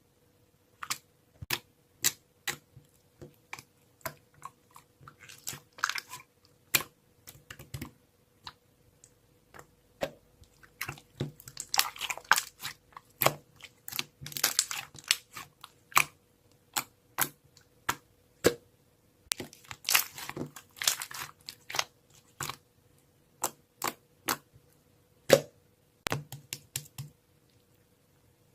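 Close handling sounds: irregular sharp clicks and taps, with a few short stretches of crinkly rustling, over a faint steady hum.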